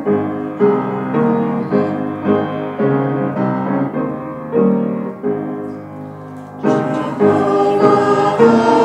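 Piano playing the introduction to a hymn in slow, sustained chords. The music swells and grows fuller about seven seconds in.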